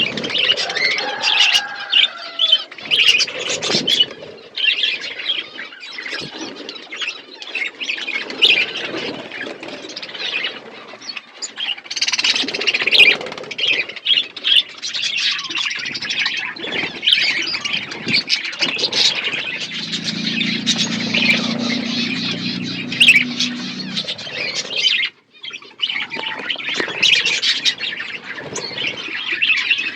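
Budgerigars chattering continuously, a dense stream of rapid warbles, chirps and squawks from several birds.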